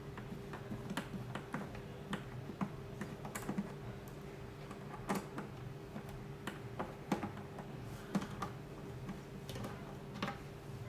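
Irregular light clicks and taps, several a second, from plastic parts and small tools being handled while the cryo6s device is taken apart, over a steady low hum.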